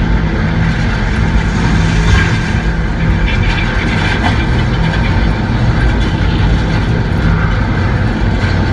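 Loud, steady roar of tornado winds passing by, a dense rushing noise with a low rumble underneath.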